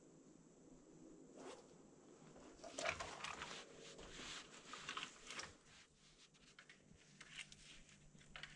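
Faint rustling and scraping of a person moving about in deep snow, a run of short scratchy strokes starting about three seconds in.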